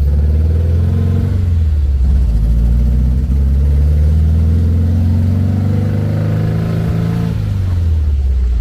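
Replica vintage Porsche's engine running under way, heard from on board. The revs rise through the middle and drop back about seven seconds in.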